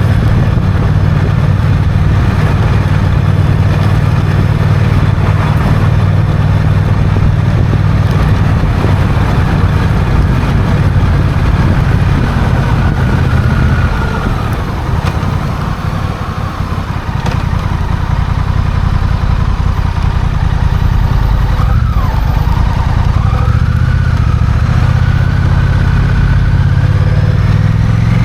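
Honda CMX1100 Rebel's parallel-twin engine running under way on the road, easing off for a few seconds around the middle, then pulling harder with a rising pitch near the end.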